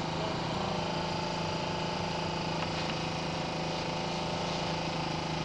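An engine running steadily, a constant hum.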